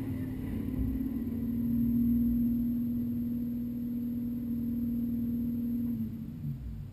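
V8 engine of a mud-racing Jeep running at a steady speed, heard from inside the car. Its steady note drops away about six seconds in, leaving a lower rumble.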